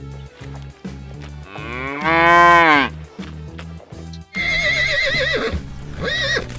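Cow mooing: one long call that rises and falls in pitch about two seconds in, then a wavering call and a short call near the end, over background music with a steady bass beat.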